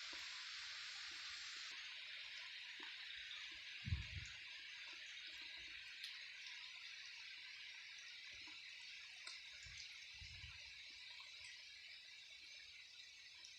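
Faint, steady hiss of rain falling, with a dull low thump about 4 s in and softer ones around 10 s.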